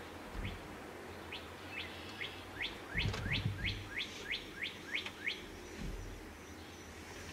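A songbird singing a series of short, downslurred whistles that start slowly and speed up into a quick run of about a dozen notes. A low thump comes about three seconds in.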